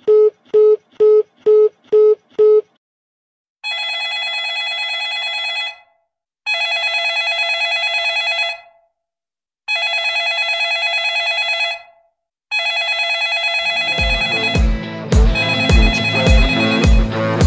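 A telephone busy tone, about seven quick beeps, then a telephone ringing in four trilling rings of about two seconds each with short gaps between them. Near the end, music with a steady drum beat comes in over the last ring.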